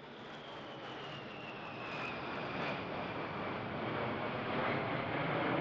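Jet aircraft flying over: a steady rushing engine noise with a high whine that slides down in pitch over the first few seconds as it passes, growing slightly louder.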